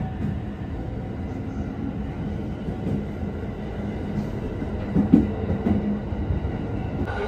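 Commuter train pulling away from a station, heard from inside the carriage: steady running noise of the wheels on the rails. A single sharp knock comes about five seconds in.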